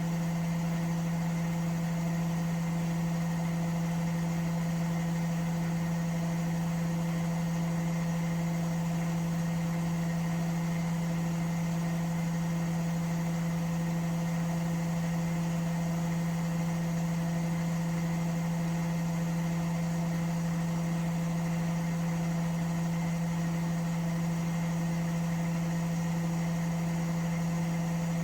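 Washing machine running at a steady speed: a loud, unchanging motor hum with a faint pulsing beat about once a second.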